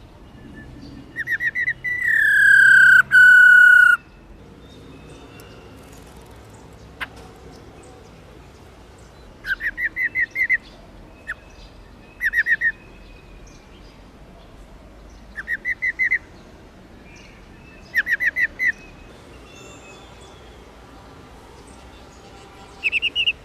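Female black-throated laughingthrush giving its rolling 'ro ro' call: short, quick trills of about five notes, repeated in separate bursts every few seconds. About two seconds in there is one long, loud whistle that slides slightly down in pitch, the loudest sound here.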